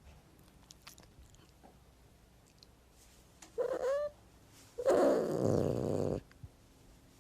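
Cat calling: a short meow about three and a half seconds in, then a second later a louder, rough, drawn-out cry lasting over a second.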